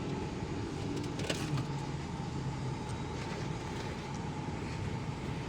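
Steady mechanical hum of a running engine, with a few light metallic clicks about a second in.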